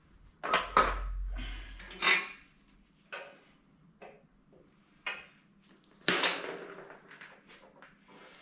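Metal tools and engine parts clanking and knocking as they are handled during an engine teardown: a string of separate sharp strikes, the loudest about six seconds in, ringing briefly.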